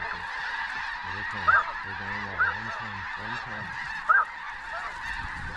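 A large flock of snow geese calling: a dense, continuous chorus of high honks, with a few louder single calls standing out about one and a half, two and a half and four seconds in.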